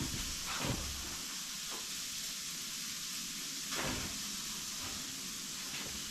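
Sausages frying in a pan, a steady sizzle, with two soft knocks about one second and about four seconds in.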